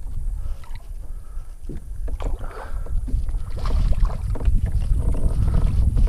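Movement and handling noise in a fishing kayak, picked up by a chest-mounted camera mic as a bass is brought in: a low rumble that gets louder after a few seconds, with scattered light knocks and clicks.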